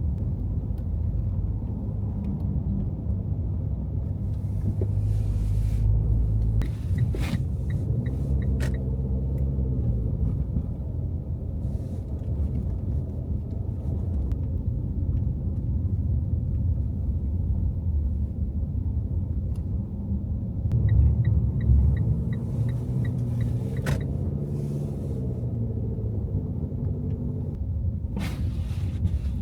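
Car driving on snowy city streets: a steady low road and engine rumble, with the engine note rising twice. Each time a light, regular ticking comes with it, about three ticks a second, and there are a few short knocks.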